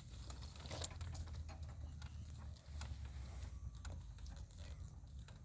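A donkey grazing: scattered crunching clicks as grass is bitten off and chewed, over a steady low rumble.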